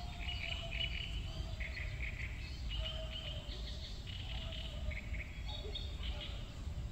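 Small birds chirping and singing in short, repeated phrases, over a low steady rumble.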